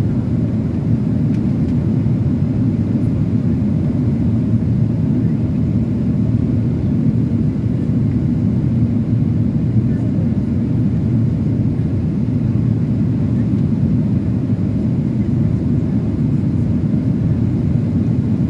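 Steady, even low roar inside the cabin of a Boeing 737-800 in flight: airflow and its CFM56 turbofan engines, with no sudden changes.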